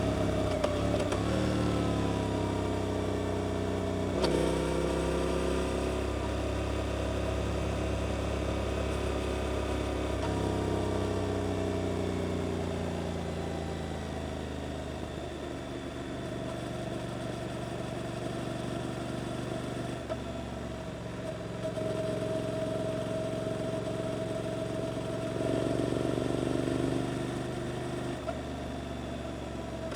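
Suzuki GSX-8S parallel-twin engine through an Arrow aftermarket exhaust, running as the bike rides: the engine note falls twice in the first dozen seconds as the bike slows, runs steadier and lower through the middle, then rises briefly under throttle near the end. Wind and road noise run underneath.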